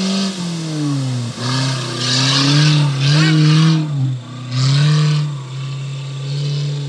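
Maruti Gypsy's four-cylinder petrol engine revving hard as it drives through soft sand, its pitch falling and rising several times with brief drops as the load changes. There are two loud bursts of rushing noise over the engine, one in the middle and one shortly after.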